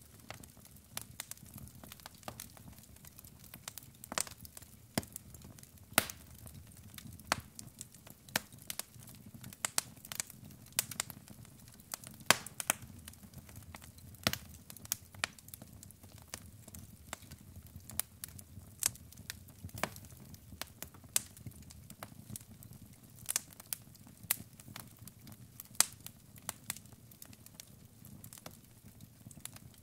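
Wood fire in a fireplace crackling, with irregular sharp pops and snaps from the burning logs over a low steady rush of flame.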